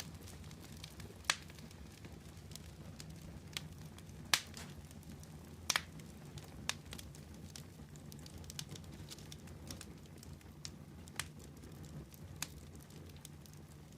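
Wood fire burning with a steady low rumble and irregular sharp crackles and pops, a few standing out louder than the rest.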